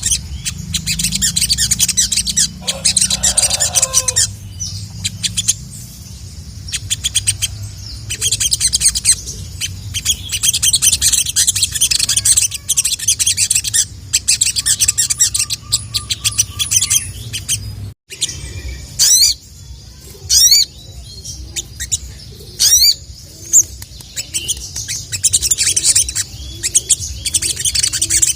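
Male ruby-cheeked sunbird (sogon) singing loudly in full song, a rapid high chattering twitter broken by short pauses. About two-thirds through there is a brief break, and after it come separate quick sweeping notes. It is the call used as a lure to challenge a rival male, over a low steady hum.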